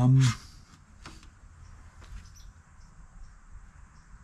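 A brief voiced hum right at the start, then faint, scattered light clicks and taps of small metal carburetor parts being handled.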